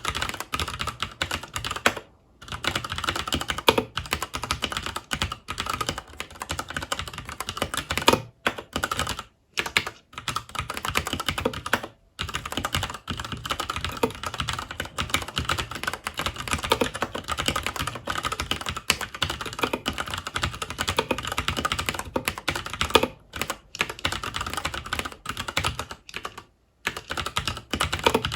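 Continuous fast typing on a FILCO Majestouch 2 Hakua tenkeyless mechanical keyboard with Cherry MX Brown switches, a dense run of key clacks broken by a few short pauses.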